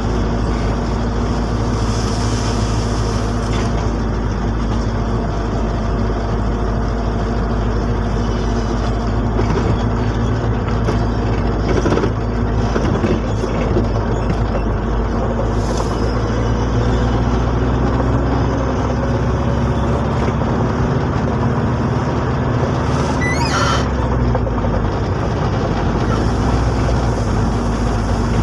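A vehicle's engine and road noise heard from inside the cab while driving at a steady speed. The engine hum holds steady, rising slightly in pitch about two-thirds of the way through.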